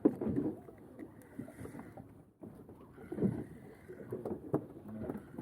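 Low, indistinct voices with scattered handling clicks and a sharp knock right at the start.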